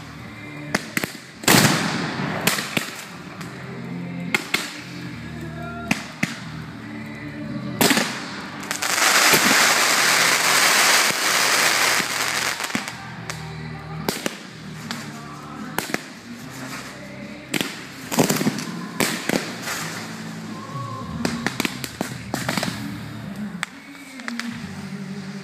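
Fireworks display: a string of sharp bangs from bursting shells, with a dense stretch of crackling about nine seconds in that lasts some three seconds, over background music.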